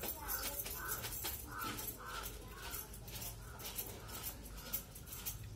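A person chewing pakhala, rice soaked in water, with wet smacking clicks several times a second.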